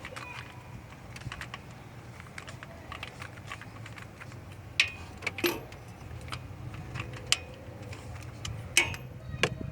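Irregular light metallic clicks and clinks of a wrench working on the engine, tightening the new coolant temperature sensor, with a few sharper clinks about five and nine seconds in, over a low steady hum.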